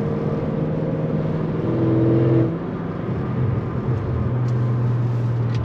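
Tuned Audi S6 engine and exhaust under way at a steady note; about two seconds in the note swells louder under throttle, then drops back suddenly as the throttle is lifted, settling into an even cruise.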